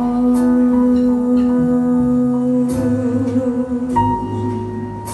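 Jazz ballad played by a live band, with no vocal: a long held note for the first two to three seconds, then moving notes.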